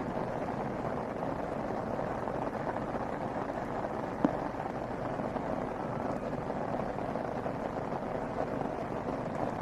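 Steady rushing of floodwater, an even noise without breaks, with a single sharp click a little over four seconds in.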